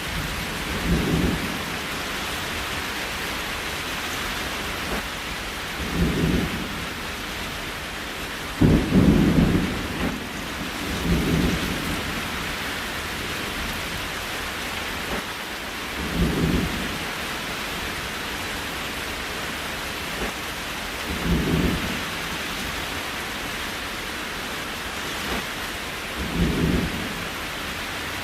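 Steady rain, with short low rumbles swelling up about every five seconds, the strongest about nine seconds in.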